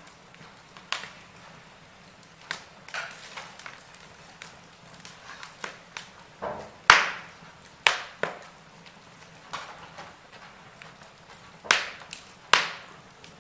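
Wood fire burning in a fireplace, crackling with irregular sharp pops over a soft hiss; the loudest pop comes about halfway through, with two more strong ones near the end.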